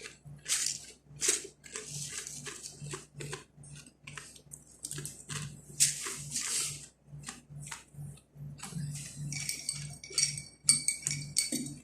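Crunchy toasted khubz flatbread being bitten and chewed, a rapid irregular series of crisp crunches. A faint low hum pulses about twice a second underneath.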